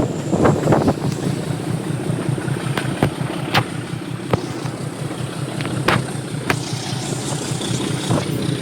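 Diesel train engine running steadily, with sharp clicks or knocks now and then.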